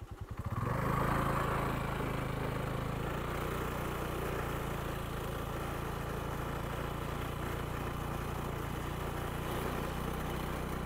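Rented Honda Dio scooter's small engine running steadily while riding along the road. It picks up about half a second in and stops abruptly at the end.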